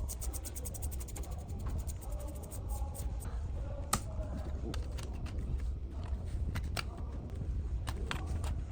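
Small hand-work clicks from tools and parts being handled: a quick run of clicks about ten a second, then scattered clicks and taps, the sharpest about four seconds in, over a low steady hum.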